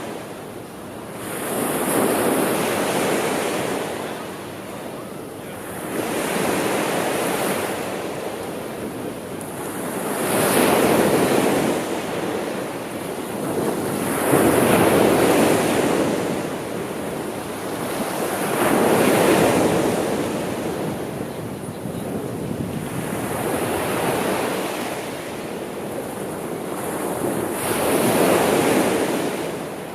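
Sea waves breaking and washing on the shore, swelling and falling back about every four seconds, with some wind.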